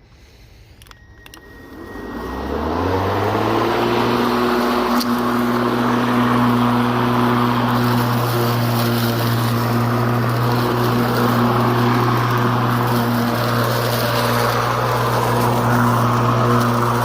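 HART 20V cordless push mower's electric motor spinning up from a standstill over about a second and a half after a few clicks, then running at a steady pitch.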